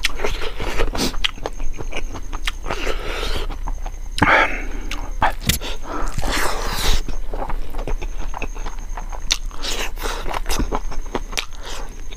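Close-up eating sounds of a man chewing rice and chicken gizzard curry, taken by hand: irregular wet smacks and clicks of chewing, with the rustle and scrape of fingers gathering food on the plate.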